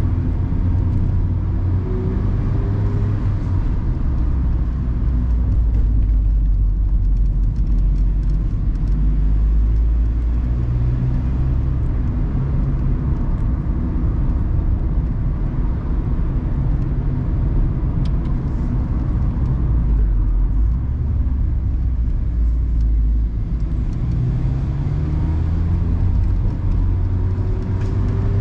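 Mazda ND Roadster's four-cylinder engine heard from the open-top cockpit, its note rising and falling as the car speeds up and slows, over a steady low rumble of tyre and wind noise.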